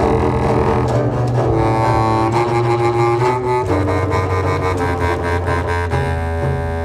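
Experimental chamber music: a bowed double bass holds low notes under sustained clarinet tones, the bass moving to a new note about halfway through.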